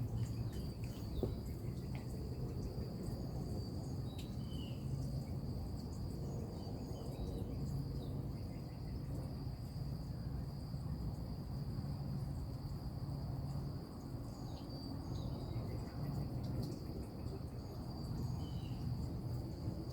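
Insects trilling steadily in a high, unbroken band, with a few faint short bird chirps, one about four seconds in and another near the end.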